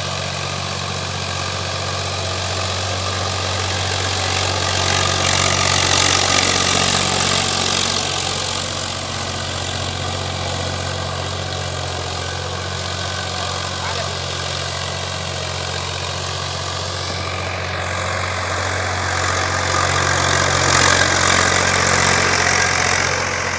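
Tractor diesel engine running steadily, swelling a little louder twice.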